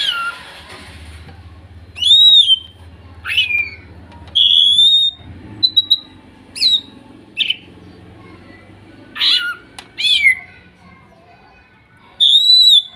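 Cucak ijo (green leafbird) calls from young wild-caught birds: a series of loud, clear whistled notes about a second apart, some arching up and over, others sliding sharply down, with short gaps between. A short noisy burst sounds right at the start.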